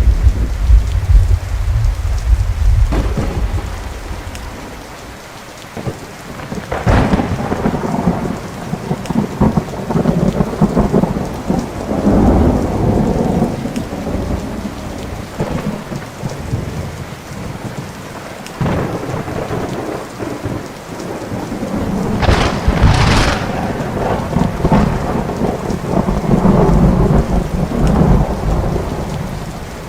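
Thunderstorm: rain falling steadily while thunder rumbles and rolls repeatedly. There is a sharp crack about seven seconds in, and the sharpest, loudest crack comes a little past two-thirds through.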